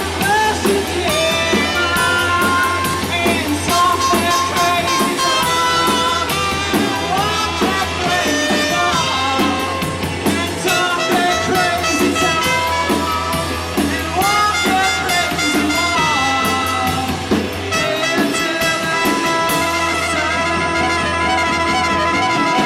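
A live band playing a song.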